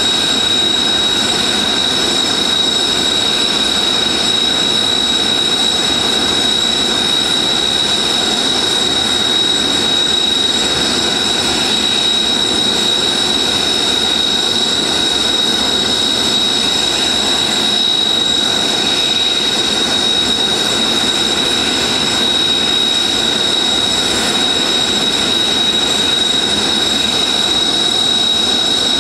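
Kawasaki T-4 jet trainers' turbofan engines idling on the ground: a steady rush with one high whine held on a single pitch.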